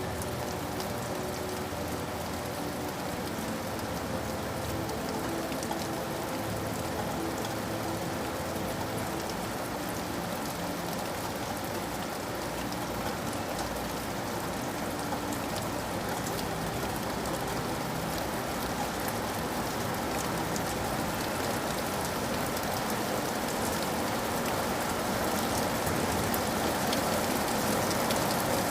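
Steady rain falling on a surface, with many individual drops ticking, growing a little louder near the end.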